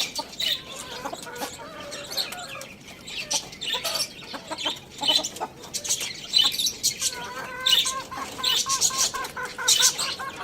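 Chickens clucking among many short, high bird chirps, with a run of quick repeated calls starting about two-thirds of the way through.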